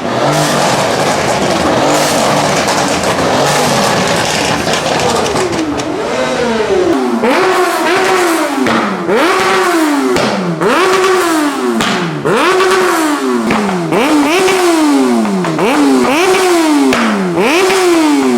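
Loud jumble of car engine noise, then from about six seconds in one car's engine is revved over and over. Each rev rises quickly in pitch and falls away more slowly, about one every second and a quarter.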